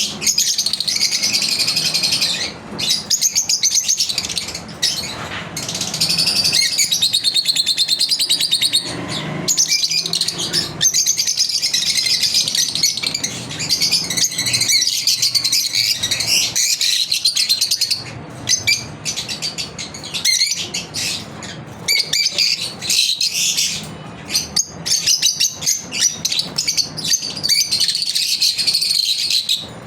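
Lovebirds chirping continuously: many rapid, shrill, overlapping chirps with only brief pauses.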